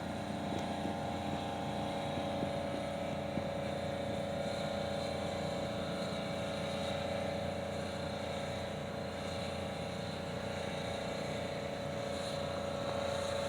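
A steady mechanical hum that holds an even pitch and level throughout.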